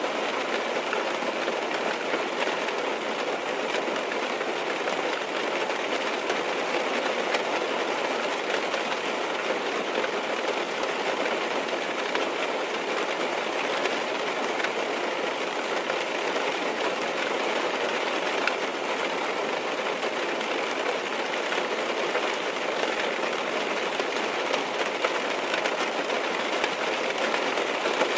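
Rain falling steadily on a car's roof and windows, heard from inside the cabin: a dense, even patter that never lets up.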